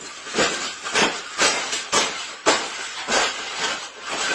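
A birdcage being smashed: a run of hard, sharp blows, about two a second, with some rattle and clink after each as it is crushed.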